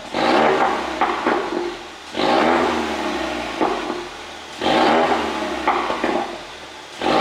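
2017 Ford Mustang's 2.3-litre EcoBoost turbo four-cylinder revved in repeated blips about every two and a half seconds. The revs fall away after each blip with a few sharp exhaust pops, the crackle that the tune is made to give on the overrun.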